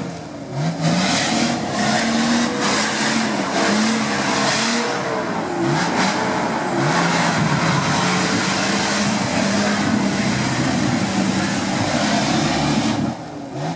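Off-road 4x4 engine working hard over rough terrain, its revs repeatedly rising and falling under rattling and tyre noise. The engine drops off briefly near the start and again near the end.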